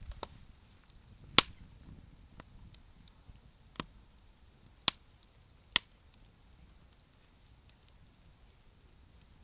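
Wood bonfire crackling: a few sharp, irregular pops from the burning wood, the loudest about a second and a half in, with faint ticks between over a faint steady hiss.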